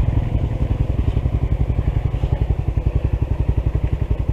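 Honda CT125's single-cylinder engine idling, a steady even putter of about ten beats a second.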